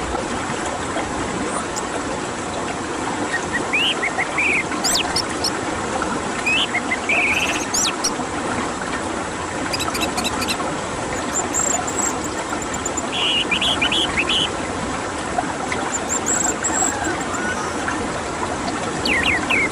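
Songbird calls, short whistled sweeps and brief rapid trills, scattered over a steady loud rushing hiss.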